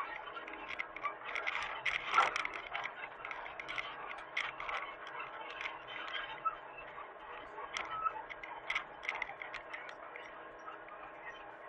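Hitachi mini excavator running with a steady hum, under irregular clicks and knocks; the loudest knock comes about two seconds in.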